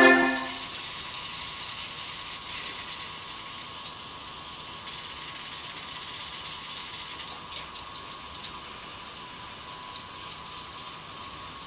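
Kondo KHR-3HV humanoid robot's servo motors whirring steadily, with faint scattered clicks, as the keyboard's last chord dies away in the first half second.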